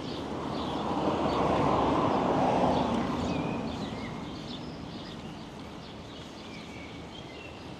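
A vehicle passing close by, its noise swelling and then fading away, while birds chirp in the background.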